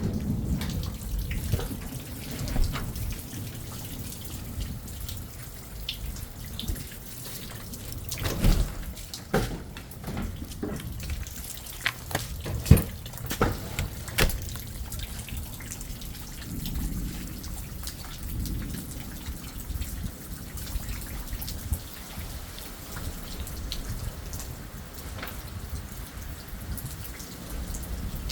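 Rain falling during a thunderstorm, with water dripping and splashing in scattered sharp taps over a steady low rumble. The drips come thickest and loudest about a third of the way through.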